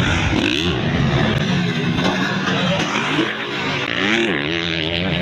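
Motocross dirt bikes' engines racing, their pitch rising and falling as the riders rev up and back off.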